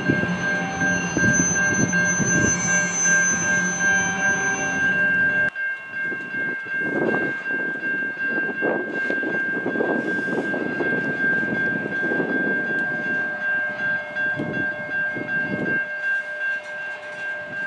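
Freight train rolling through a rail junction, with rumble and rail noise under a steady high-pitched tone. About five and a half seconds in, the low rumble drops away abruptly. After that come irregular clanks and knocks of wheels and cars over the track.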